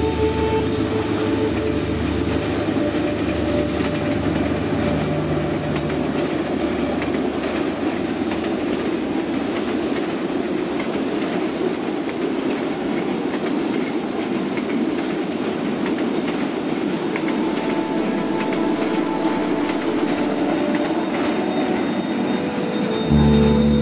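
Passenger train rolling past: a steady rumble of steel wheels on the rails with faint clicking over the rail joints. Near the end a louder steady tone of several notes cuts in.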